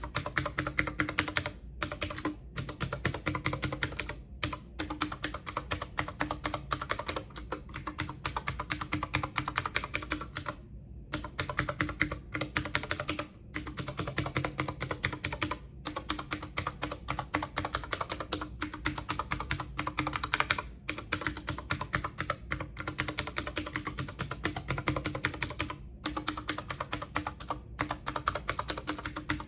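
Fast typing on a computer keyboard: a dense run of key clicks, broken by brief pauses every few seconds.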